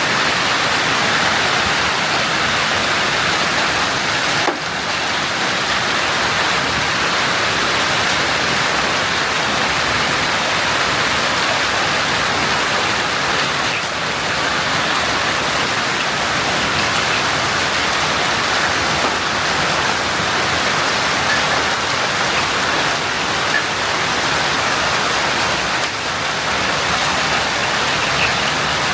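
Hailstorm: hail and heavy rain pelting down on hard surfaces in a dense, steady hiss that starts abruptly.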